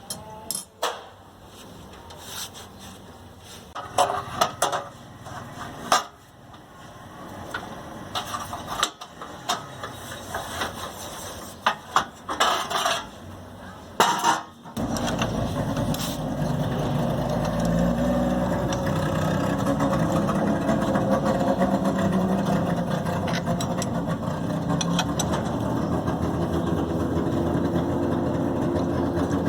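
Sharp metallic clicks and clinks of hand tools working on bolts. About halfway through, a steady engine-like motor sound starts abruptly and keeps running.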